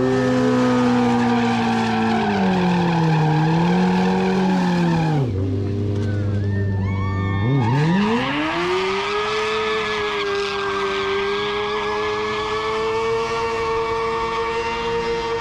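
Sport bike engine held at high revs during a burnout, its pitch wavering. About five seconds in it drops to a low steady note for a couple of seconds, then climbs back and holds high, over the hiss of the rear tyre spinning.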